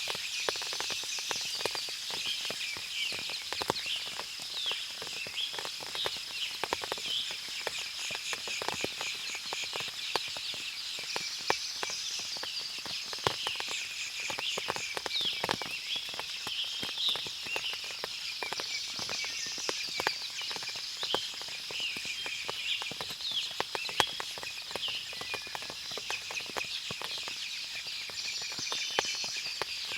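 Forest ambience after rain: many birds chirping and calling over a steady high-pitched hum, with frequent sharp drips scattered throughout.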